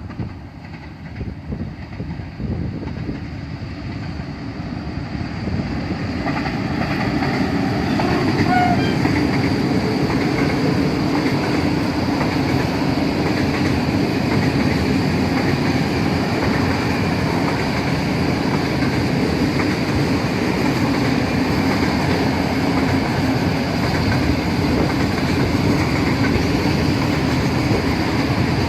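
Freight train passing close by: it grows louder over the first several seconds, then its wagons roll past steadily with a dense clatter of wheels on the rails.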